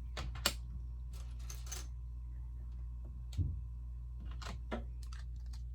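Plastic Lego bricks clicking as they are handled and pressed together: a few sharp clicks scattered through, with a duller knock about three and a half seconds in, over a steady low hum.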